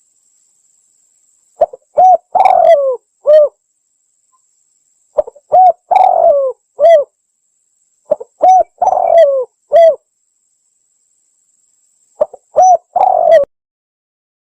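Spotted dove (tekukur) song played as a lure call: four cooing phrases, each a short lead note, a pair of coos and a longer, rougher croo ending in a final coo, repeated every three to four seconds.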